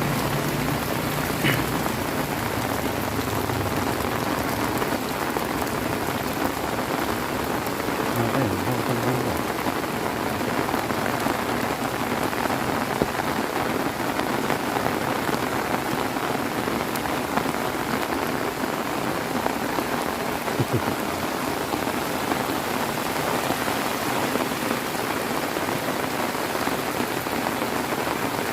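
Heavy rain falling steadily, a continuous dense hiss of drops hitting surfaces.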